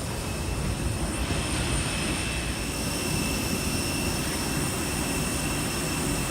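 Steady rushing hum of an Airbus A319's cabin, with a thin, steady high-pitched whine over it.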